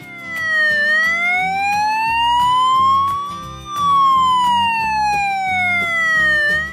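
Emergency-vehicle siren wailing in one slow cycle: the pitch dips briefly, rises for about three seconds, then falls and stops near the end, over light background music.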